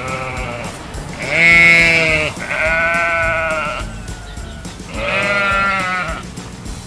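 Sheep bleating three times over light background music, each bleat a wavering call about a second long.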